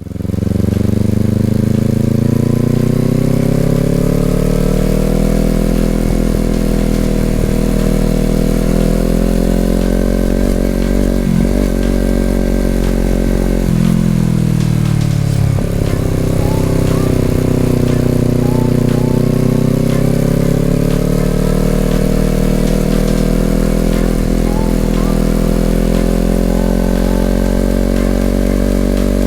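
Honda CBR250RR's parallel-twin engine running through an Over Racing aftermarket exhaust while riding. The revs climb over the first few seconds and hold, break briefly about eleven seconds in, drop a couple of seconds later, then rise and fall gently.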